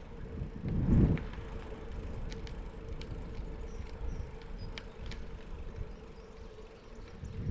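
Trek Verve 2 hybrid bicycles riding along a trail: steady tyre rumble and wind noise on the microphone, with scattered small clicks and a louder rumbling surge about a second in.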